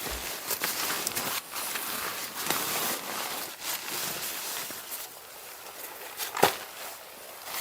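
Footsteps crunching in snow, about one step a second, with one sharper, louder crunch near the end.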